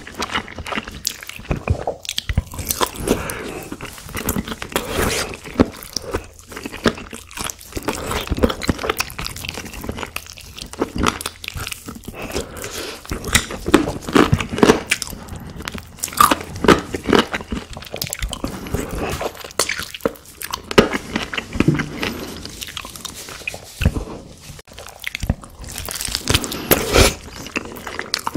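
Close-miked eating of a BBQ chicken drumstick dipped in cheese sauce: biting into the meat and chewing, with many irregular sharp clicks and wet mouth sounds.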